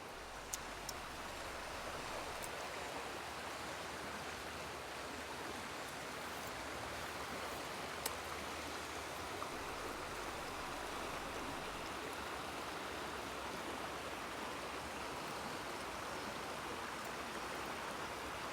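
River water running steadily over rocks, a continuous even rush, with a few faint ticks.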